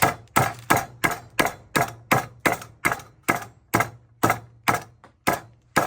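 Meat hammer pounding slices of beef thin, a steady run of sharp blows about three a second.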